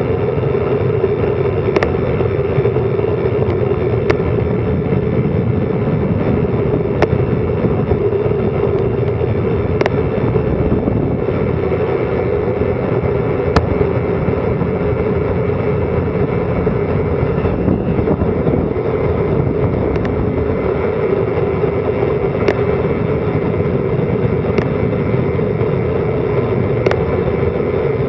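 Steady rushing wind noise on the microphone of a bicycle descending at speed, with a hum near the middle and scattered sharp clicks every couple of seconds.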